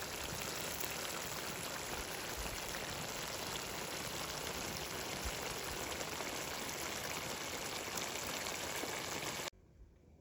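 A steady rushing hiss that cuts off abruptly near the end.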